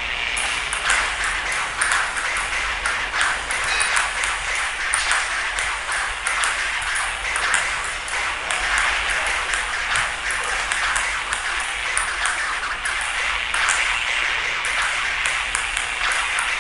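Table tennis ball being hit back and forth and bouncing on the table: a fast, irregular run of sharp clicks, several a second, over a steady hiss.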